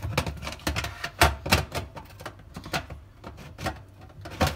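Plastic dishwasher filter assembly being pressed and turned back into the sump: an irregular run of clicks and knocks of plastic against the tub as it seats.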